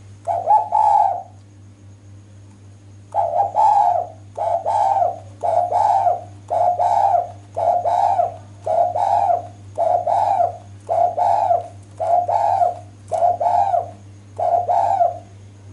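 Spotted dove (derkuku) cooing: one coo, a pause of about two seconds, then a long run of short, evenly spaced coos. It is presented as the female's call, used to lure males into answering. A steady low hum runs underneath.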